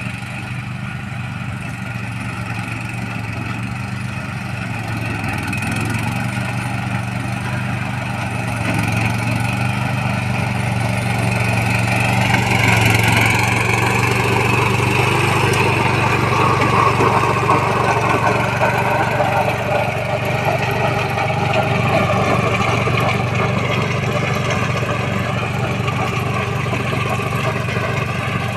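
Engine of a 12 HP mini tractor with a rotary tiller, running steadily and growing louder over the first half.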